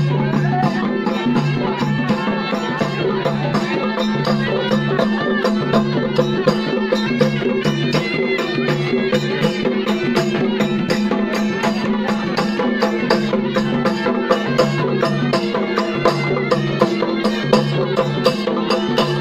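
Traditional folk music: a sustained droning melody over steady percussion strokes, about three a second.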